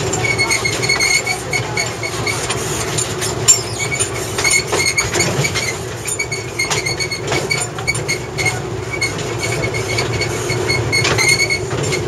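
Narrow-gauge sugar-cane railway train running along the track, heard from an open carriage: a steady rumble with the wheels clicking over rail joints and a thin, high squeal that comes in short repeats. There is one sharper knock about three and a half seconds in.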